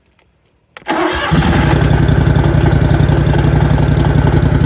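Scag stand-on mower's Kawasaki petrol engine cranked from cold on choke, catching about a second in and then running steadily at low revs. It carries a rattle that the owner thinks is a pulley noise.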